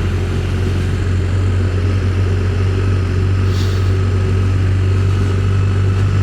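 Motorcycle engine running at a steady cruising pace, a constant low drone with no change in revs.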